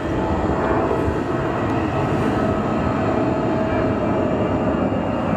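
Jet airliner engines: a loud, steady rushing roar with faint whining tones running through it.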